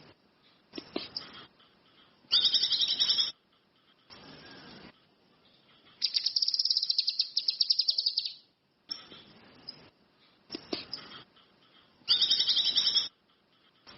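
Cucak kinoi (ranti mas) songbird singing: three loud, high, rapid chattering trills, each about a second long except the middle one, which lasts about two and a half seconds, with fainter calls between them.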